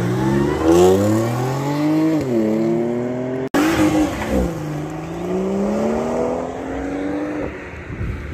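Two cars accelerating hard away one after the other. First an Audi estate's engine revs climbing steeply with an upshift about two seconds in; then, after an abrupt break, a BMW 1 Series hatchback's engine revving up, dipping at an upshift and climbing again before fading.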